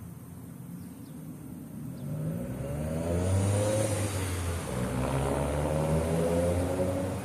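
A car engine passing close by, growing louder about two seconds in, its pitch rising and falling as it speeds up.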